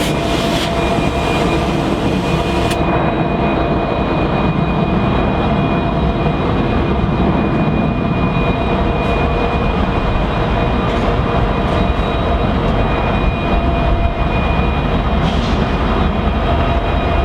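Train passing close by: a steady, loud rumble of railcars on the track, with a few thin steady tones above it.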